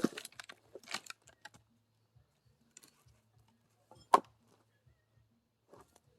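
Axe striking firewood twice, about four seconds apart, with light clattering of wood after the first blow.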